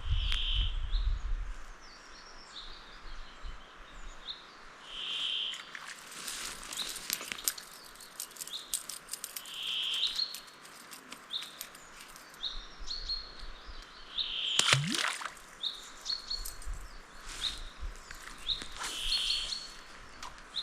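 Wild birds singing, with one short call repeating about every five seconds among quicker, higher chirps. Scattered clicks and rustles are heard through it.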